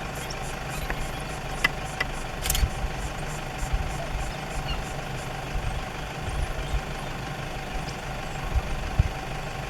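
A vehicle's engine idling steadily, with a few short clicks and knocks over it.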